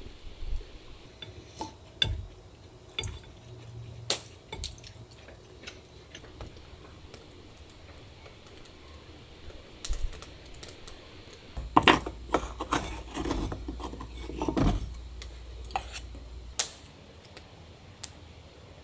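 Scattered clicks and knocks of small hard objects being handled, with a busier run of clatter about twelve seconds in that lasts a few seconds.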